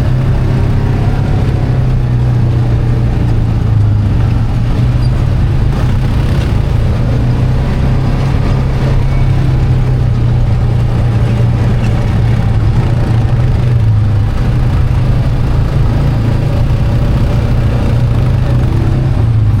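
ATV engine running steadily under way, a loud low drone that holds a nearly even pitch with small dips and rises.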